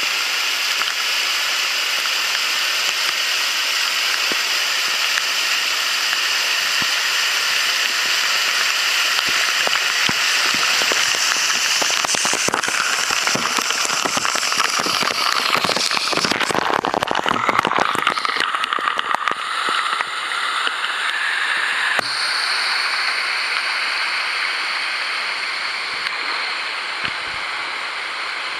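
Waterfall pouring into its pool: a steady rush of falling water. In the middle stretch, a spell of crackly splashing breaks in, and after it the tone of the rush changes.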